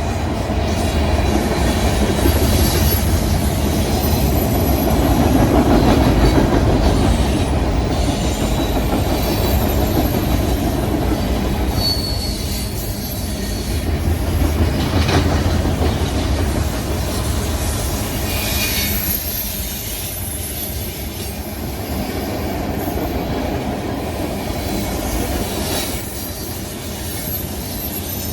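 CSX freight train rolling over a railroad bridge: a steady, loud rumble of steel wheels on the rails, with wheels clicking along the track and short, high wheel squeals now and then.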